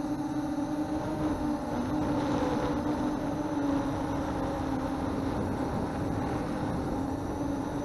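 MJX Bugs 3 brushless quadcopter's motors and propellers whining steadily in flight, heard from the camera mounted on the drone, the pitch wavering slightly as the throttle shifts. A rushing haze of wind noise lies underneath.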